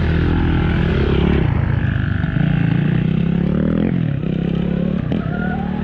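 Dirt bike ride: heavy wind noise on an action-camera microphone over a motor whine that shifts in pitch and rises steadily near the end as the bike speeds up.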